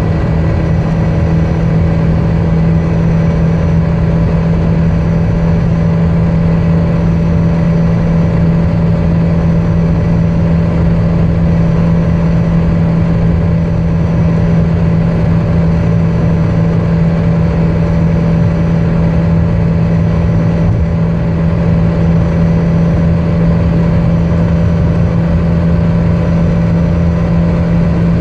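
Car engine and road noise at a steady speed: a loud, constant drone that holds the same pitch throughout, with no revving up or down.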